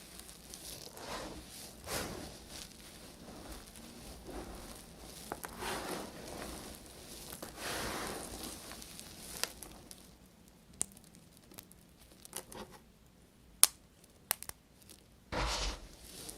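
A blade cutting through soap, with crunchy scraping cuts every second or two. These give way to a few sharp clicks and taps, and a short low thump near the end.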